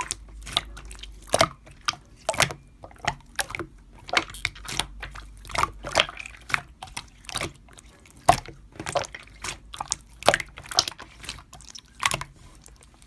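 Slime being squished and pressed by hand, giving a quick, irregular run of wet clicks and pops.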